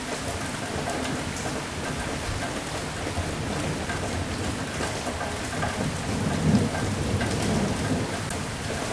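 Steady heavy rain falling, with a low rumble of thunder that swells about six seconds in and fades out.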